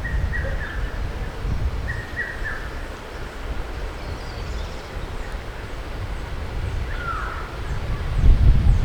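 Wind buffeting the microphone, with a gust near the end, over short bird chirps: a few near the start and just after two seconds, and one falling call about seven seconds in.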